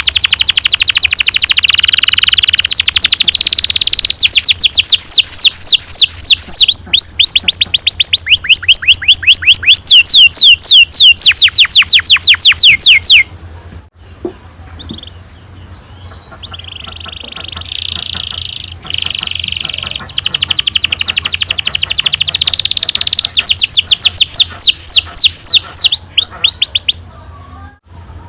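Domestic canary singing long rolls: rapid runs of evenly repeated, falling high notes. The song breaks off about halfway through, resumes a few seconds later and stops shortly before the end.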